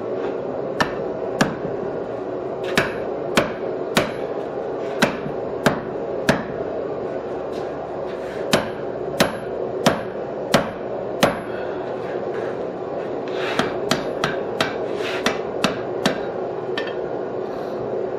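Hand hammer blows on hot steel at the anvil, about twenty strikes in bunches of two to six, each with a short high ring. The blows come at roughly one and a half a second, and the last bunch comes quicker and lighter. A steady hum runs underneath.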